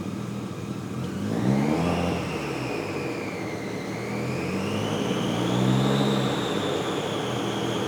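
Turbocharged Toyota 3S-GE engine in a Maserati Biturbo running on a chassis dyno, with a high whine that climbs about a second in, dips, then climbs again as the engine speed changes.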